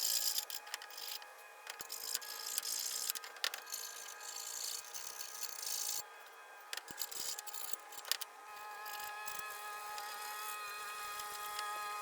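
Irregular scraping and rubbing strokes of hand tool work, over a steady hum of several tones; from about eight seconds in the strokes give way to a more even, steady sound.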